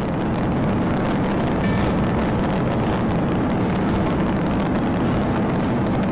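Steady rushing road and wind noise of a vehicle travelling at high highway speed, with no siren.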